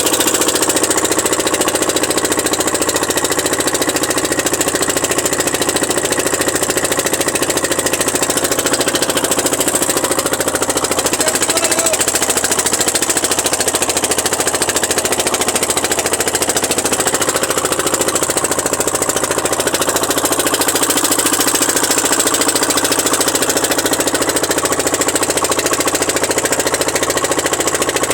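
Boat engine running steadily at an even speed, with a rapid, regular knocking beat.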